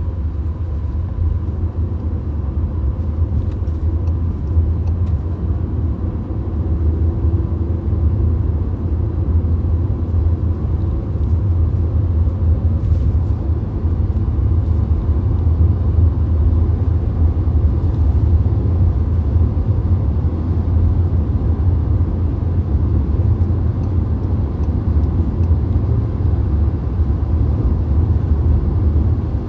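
VW Golf cruising on a motorway, heard from inside the cabin: a steady, deep rumble of tyre, road and engine noise.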